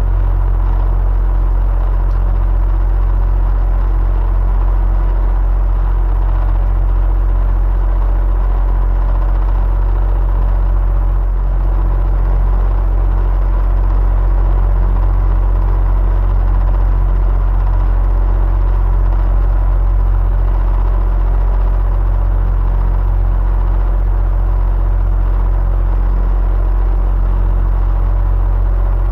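Electric fan running steadily with a deep low hum, a faint steady whine and an even rush of air, unchanging throughout.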